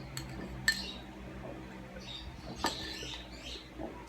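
Cutlery clinking against a dish while someone eats: three short, sharp clinks, the second and third louder than the first.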